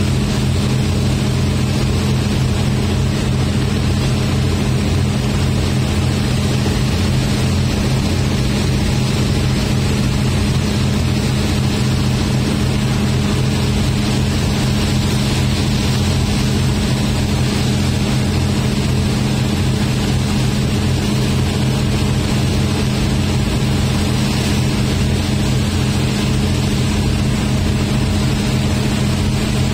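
Passenger train running at steady speed, heard from inside a carriage with its windows open: a loud, even rumble with a low steady drone under it.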